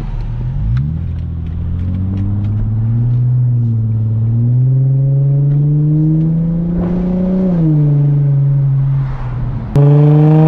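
2004 Infiniti G35 coupe's 3.5-litre V6 with the muffler deleted, accelerating: the exhaust note rises steadily in pitch for several seconds, then drops as the revs fall. Near the end the sound cuts suddenly to a louder stretch of the same engine revving up again.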